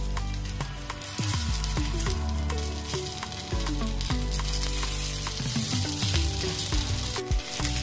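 Oil sizzling steadily around semolina pockets shallow-frying in a pan, growing fuller about a second in. A metal fork clicks against the pan again and again as the pockets are turned to fry the second side.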